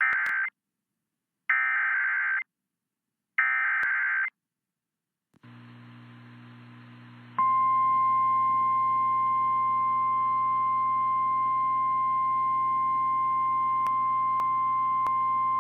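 Emergency Alert System tornado warning signal on the radio: three short bursts of warbling digital header tones, then after a faint hum a single steady high-pitched alert tone that starts about seven seconds in and holds to the end. This is the National Weather Service alert sequence that comes before a spoken tornado warning.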